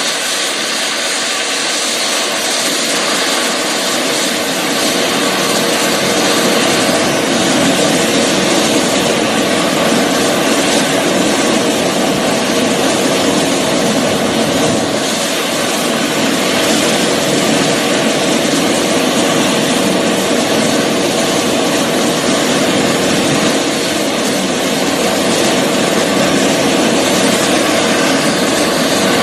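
Medical helicopter running steadily: turbine engine whine mixed with rotor noise.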